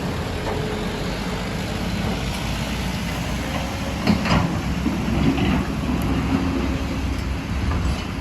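Heavy diesel engines of a working excavator and dump trucks running steadily, with a sharp clank about four seconds in.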